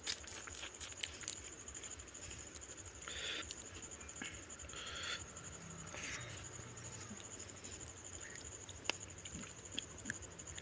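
Close-up eating sounds of a fried bok phool (agati flower) fritter being bitten and chewed by hand: soft chewing and mouth noises with a few sharp lip-smacking clicks and several short breathy puffs.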